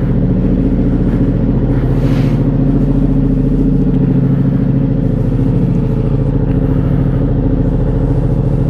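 Ducati Diavel 1260's V-twin engine running steadily, with a brief hiss about two seconds in.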